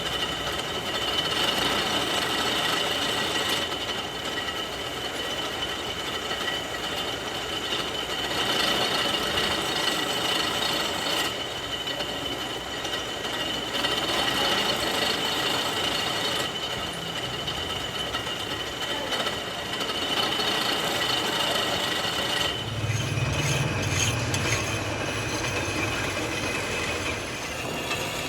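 Factory machinery running steadily: a constant mechanical noise with a high whine. About three-quarters of the way through it changes abruptly to a lower humming machine sound.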